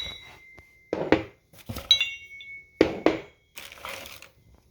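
Steel engine-stand parts being handled and knocked together: about five clanks, two of which ring briefly with a high metallic tone, one right at the start and one about two seconds in.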